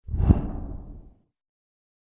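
A short whoosh-type sound effect from the InShot video editor's effects library, with a sharp hit just after it starts and a fade-out over about a second.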